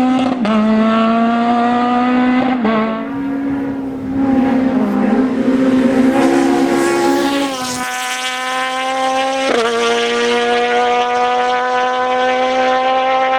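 Peugeot 206 Maxi rally car's 1.6-litre four-cylinder engine at high revs under hard acceleration, the pitch climbing in each gear and dropping back at quick upshifts about two and a half, eight and nine and a half seconds in.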